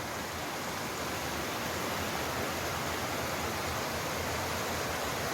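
Small waterfall rushing and splashing in a steady, even roar of falling water.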